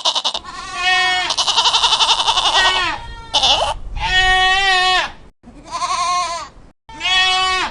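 Goat bleating: a run of about six wavering, quavering bleats of differing lengths, one after another with short breaks.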